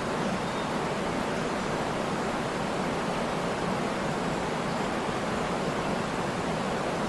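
Waterfall: a steady, even rush of falling water with no birdsong or other events over it.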